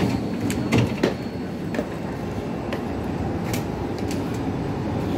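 Steady low running noise of a metro train standing at the platform, with a few knocks and footsteps as someone steps off the train and walks along the platform. The two loudest knocks come about a second in.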